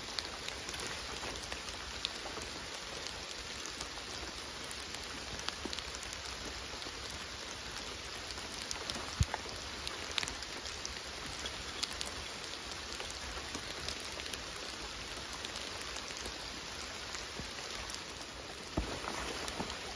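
Rain coming down hard, a steady hiss with scattered drop ticks and a couple of light knocks near the middle.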